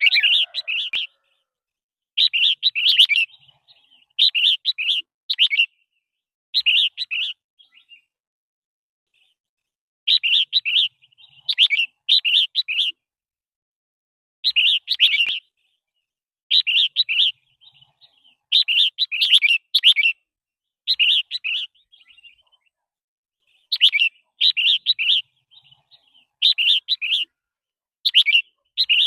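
Red-whiskered bulbul singing: short, bright chirping phrases, each about a second long, repeated over and over with brief pauses between them.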